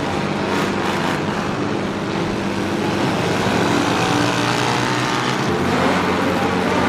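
A modified vehicle's engine and exhaust running at a fairly steady pitch.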